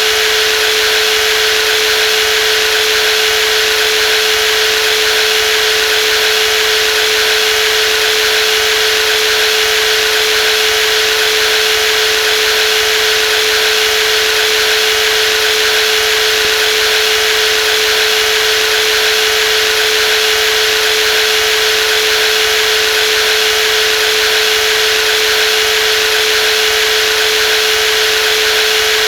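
Brushless jigsaw running at a constant speed: a steady, unchanging whine over a dense hissing buzz.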